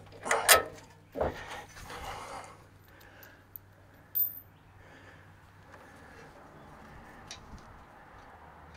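Metal clattering and clinking: a few sharp rattles in the first couple of seconds, the loudest about half a second in, and a single bright clink a little after four seconds, like hand tools or metal hardware being handled and set down.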